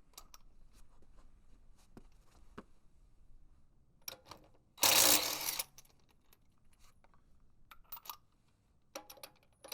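Impact wrench run in one short burst of just under a second, about halfway through, to loosen a wheel lug nut, with light metallic clinks of sockets and nuts being handled around it. A shorter, weaker burst comes near the end.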